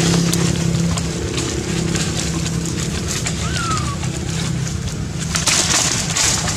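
A steady motor hum, fading somewhat after the first second, with a single short falling whistle-like call midway and a brief hiss near the end.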